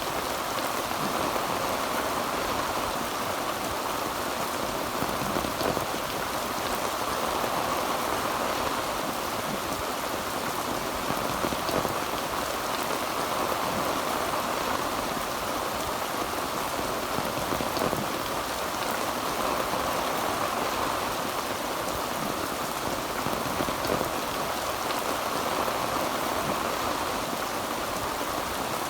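Heavy rain drumming steadily on a tin roof, a dense even patter without breaks.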